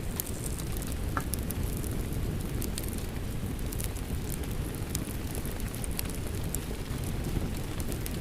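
Wood fire crackling, with sharp scattered pops, over a steady wash of rain.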